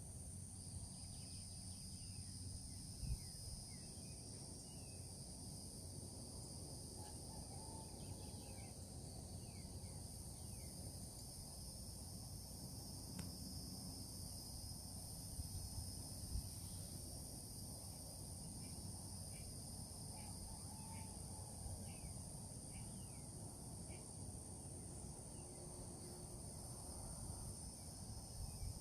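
Faint chorus of insects, cricket-like, running as a steady high-pitched shrill, with short chirping bird calls scattered through it.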